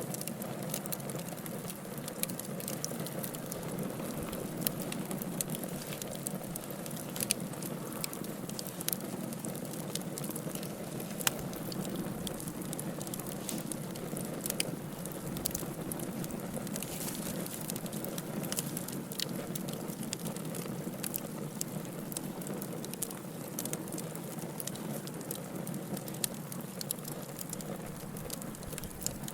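Campfire burning: a steady low rush of flame with frequent sharp crackles and pops scattered irregularly throughout.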